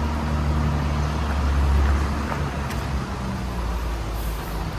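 The ALS 06 intercity bus's engine is running, a low steady drone over road noise. The drone is strongest for the first two seconds, then eases.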